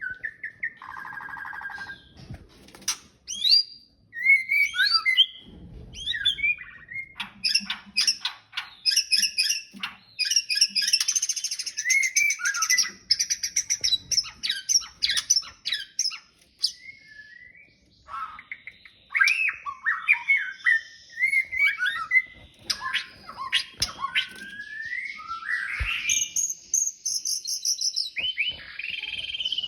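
Male white-rumped shama (murai batu) singing a courtship song to a female: a varied run of sliding whistles, rapid ticking trills and harsh buzzy notes with short pauses.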